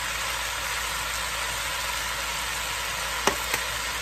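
Chopped onions, bell peppers and squash sizzling steadily in a pot, with two light clicks a little after three seconds in.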